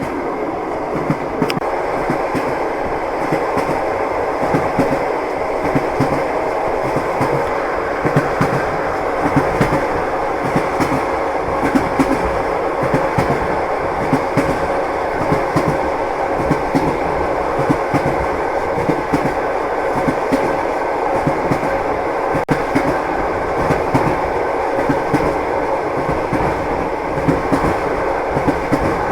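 Train wheels knocking over the rail joints: the clickety-clack of a moving railway carriage over a steady rumble, with no breaks.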